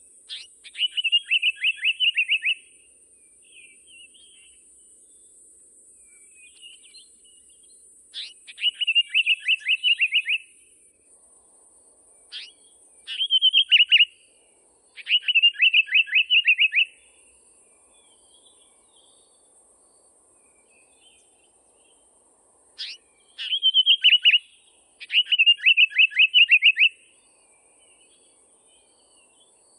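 A songbird singing. It repeats a short phrase of about eight quick, evenly spaced descending notes six times, with pauses of a few seconds and softer notes in between.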